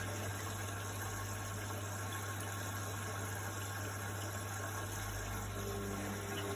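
Indesit washing machine running early in its programme, filling with water and starting up: a steady hum with a rushing, hissing water noise over it. A fainter higher tone joins near the end.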